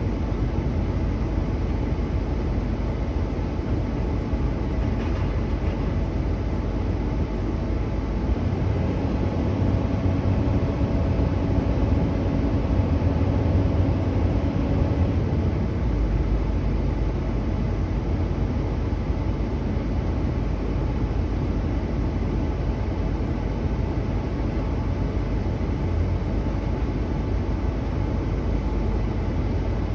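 A heavy engine running steadily with a low drone whose tone shifts slightly around the middle.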